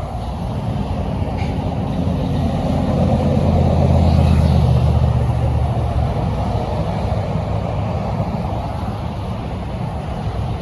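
Heavy truck driving past with its engine running, growing louder to a peak about four seconds in and then fading away, over steady road traffic noise.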